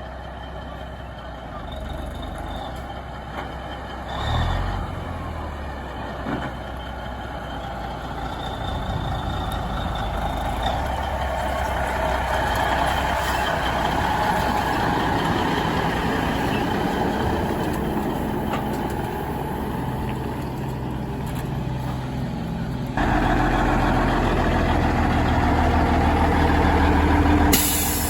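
Heavy truck engines running, slowly growing louder and jumping up in level a few seconds before the end, followed by a brief hiss near the end.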